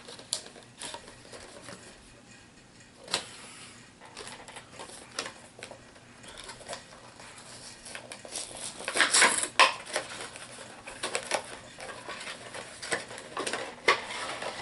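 A HeroClix booster pack being opened by hand: packaging rustling and crinkling, loudest about two-thirds of the way through, with scattered small clicks and taps of plastic miniatures being handled.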